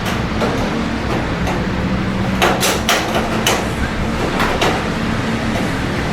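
Rain with city traffic ambience: a steady low hum and hiss, broken by a handful of sharp, close taps a couple of seconds in and again a little later.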